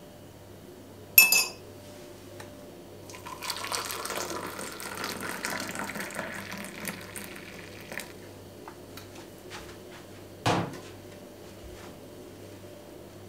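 A sharp ringing clink of a glass or dish, then liquid poured into a cup for about five seconds, and a knock near the end as the vessel is set down.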